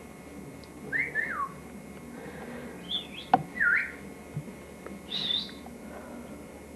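Pet bird giving a few short whistled chirps with quick gliding pitch, about one every second or two, with a single sharp click about halfway through.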